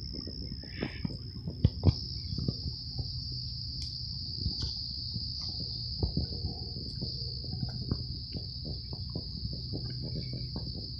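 Crickets trilling: one steady, unbroken high-pitched insect chorus. Underneath it runs a scatter of soft low thumps, with two sharper knocks just under two seconds in.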